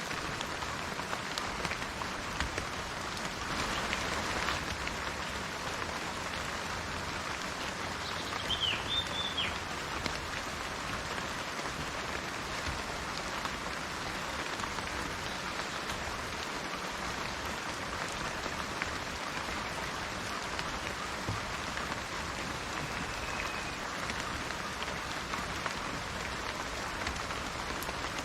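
Steady rain falling on foliage and surfaces, an even hiss with scattered drip clicks. A short bird chirp comes about eight and a half seconds in, and a faint thin bird note later.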